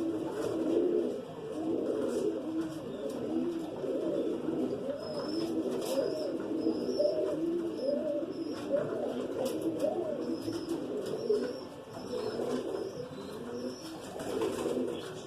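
Several pigeons cooing continuously, their calls overlapping. A few faint high chirps come in about five seconds in and again around ten seconds.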